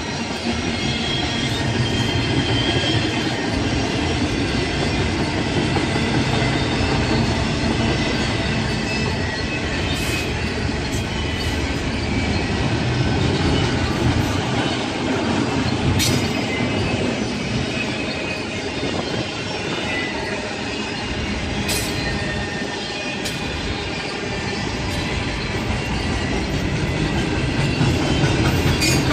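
Railroad cars rolling past in a steady rumble, with wheels squealing thinly and a few sharp clicks from the rails.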